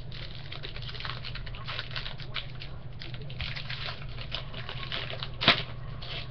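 Crinkling and rustling of a trading-card pack wrapper and cards being handled, a dense run of small crackles, with one sharp tap about five and a half seconds in. A steady low hum runs beneath.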